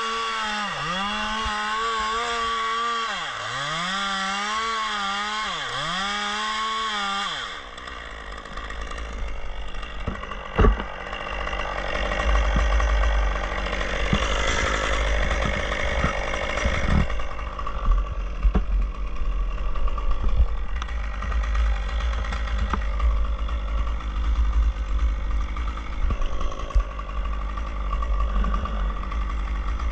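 Chainsaw running in a cut, its pitch dipping repeatedly as it bogs under load, then stopping after about seven seconds. Afterwards come rustling, scattered knocks and a heavy low rumble.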